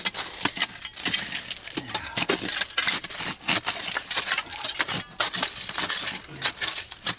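Hand digging in a bottle pit: a digging tool scraping through dirt full of glass, with many quick clinks of glass on glass and metal.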